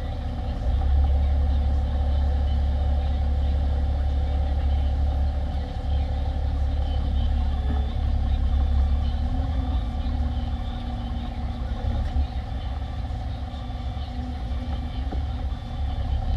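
Diesel engine of a 2016 Peterbilt 348 plow truck running steadily, a constant low drone.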